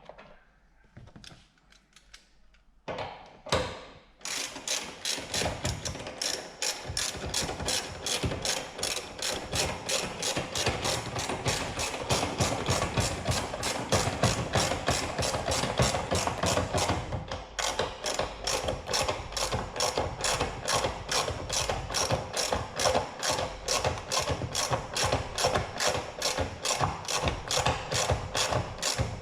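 Ratchet wrench turning a fastener with a fast, even run of sharp clicks, starting about four seconds in and briefly breaking off about two-thirds of the way through.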